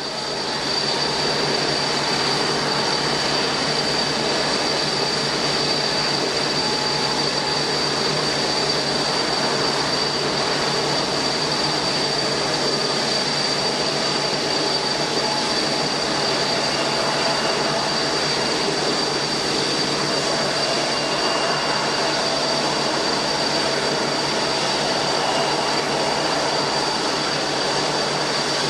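Jet airliner engines running steadily: a constant roar with a high, unchanging whine on top.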